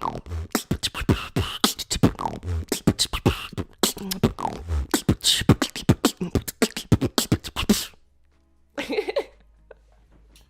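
Human beatboxing: a fast, dense run of kick drums, snares and clicky hi-hats with a few falling vocal sweeps, cutting off abruptly about eight seconds in. A brief voice sound follows about a second later.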